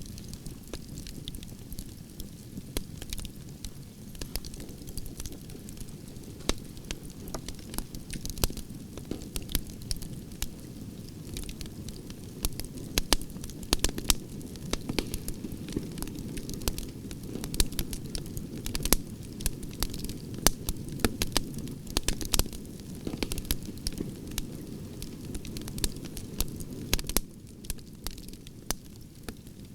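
Campfire of burning branches crackling and popping, with many sharp snaps over a steady low rush of flames.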